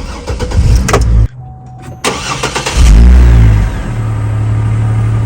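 2005 GMC Envoy SLT's engine being started from inside the cabin: the starter cranks for about a second, the engine fires, revs up in a brief start-up flare about three seconds in, then settles into a steady idle.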